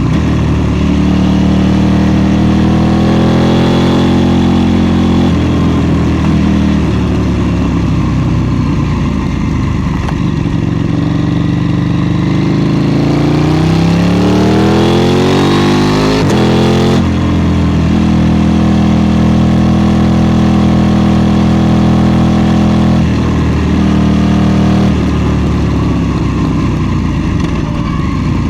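KTM 790 Duke's parallel-twin engine under way, revs climbing and falling with the throttle and gear changes. About halfway through, a long rise in revs cuts off sharply, and it then runs steadily, with smaller drops in pitch near the end.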